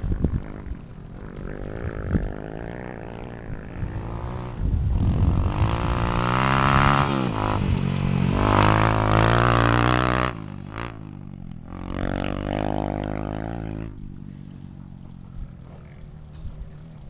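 Off-road racing motorcycle engines revving hard and passing. The engine note rises and falls with the throttle, is loudest in the middle and drops off suddenly about ten seconds in, then another engine climbs in pitch and fades.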